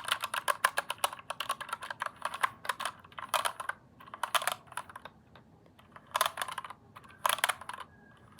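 Computer keyboard being typed on, keys clacking in quick runs. The typing is steady for the first half, then comes in short flurries with pauses between.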